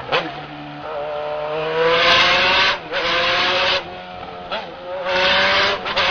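Motorcycle engine pulling hard, its pitch climbing in several runs with brief dips between them, as from gear changes. Loud bursts of rushing wind noise come and go over it.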